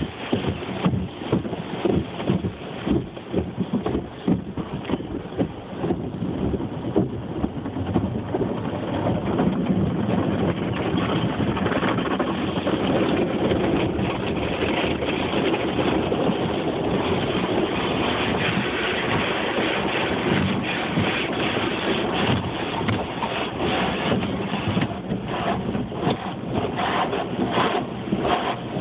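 Automatic tunnel car wash working over the car: water spray and washer brushes on the body give a dense rushing noise. It is broken by many quick slaps for about the first ten seconds, then settles into a steadier wash.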